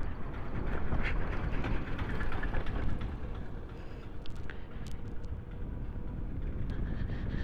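Wind and road noise from riding an electric scooter, with a faint steady tone underneath in the second half and a few light clicks.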